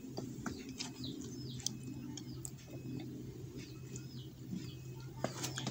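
Small birds chirping repeatedly in short, high calls over a low steady hum, with a few light clicks and knocks.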